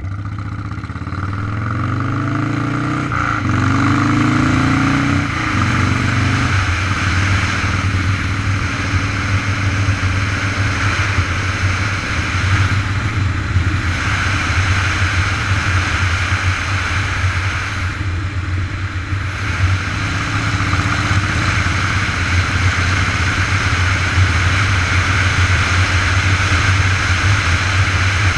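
Vehicle engine rising in pitch as it accelerates over the first several seconds, then running steadily at speed, under heavy wind rush on the microphone.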